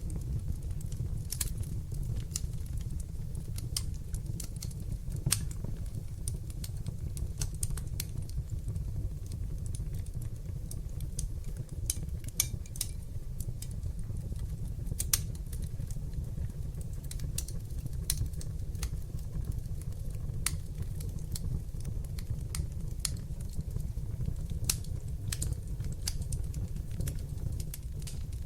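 Wood fire burning in an open fireplace: irregular crackles and snaps over a steady low rumble of flames, with a few sharper pops.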